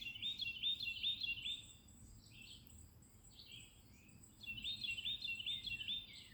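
Wild songbirds singing: one bird repeats a quick run of about five identical high notes, twice, with other birds chirping between.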